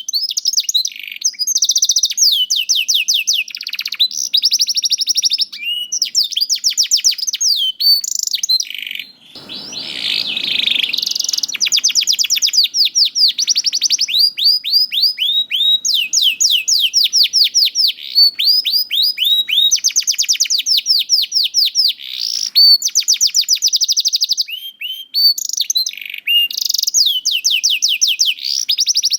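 Domestic canary singing a long, continuous song of rapid trills, each made of fast repeated sweeping notes, switching from one trill to the next every second or two. About ten seconds in there is a harsher, noisier stretch.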